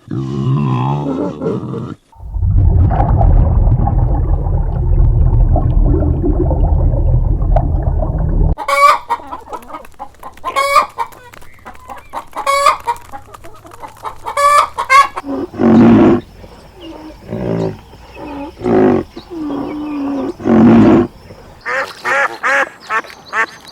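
Domestic fowl calling: a series of short pitched calls about two seconds apart, then lower calls, then a quick run of repeated calls near the end. Before them, in the first third, there is a loud, low, rumbling noise.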